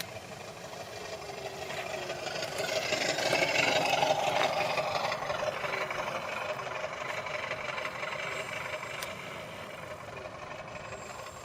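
Battery-powered 1/4-scale Hangar 9 Super Cub model plane flying past, its Benedini sound module giving a simulated piston engine sound. It grows louder to a peak about four seconds in, then fades away.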